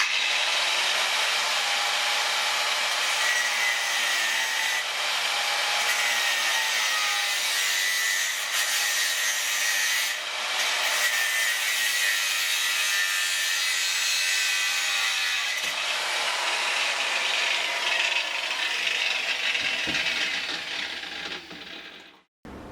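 Steady abrasive scraping, as of sanding, filing or cutting, that goes on for about twenty seconds and stops suddenly near the end.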